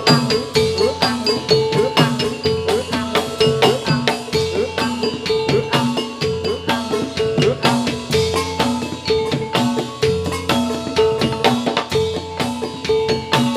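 Javanese gamelan playing jathilan accompaniment: metal mallet instruments strike quick, repeating, ringing note patterns over hand-drum strokes, without a pause.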